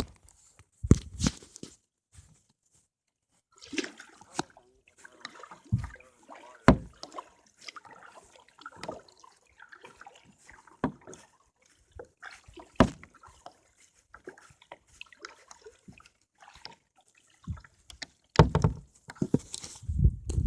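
Water splashing and sloshing around a kayak as it is paddled, with irregular knocks and thumps.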